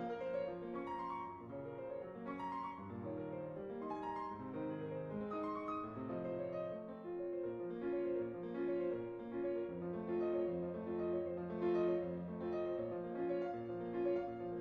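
Background music: a piano playing a steady melody with chords.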